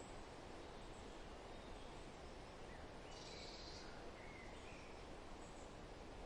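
Faint, steady wind rustling through forest, with a few short distant bird chirps and a brief high buzzy trill about three seconds in.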